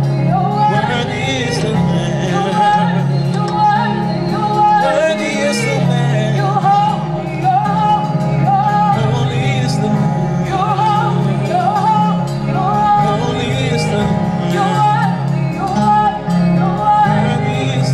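Live gospel worship music: a band plays with steady bass notes and cymbal strokes, while sung or instrumental melody lines waver above it.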